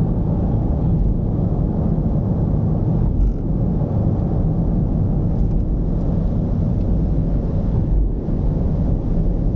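Mercedes-Benz V220's diesel engine and road noise while driving, a steady deep rumble.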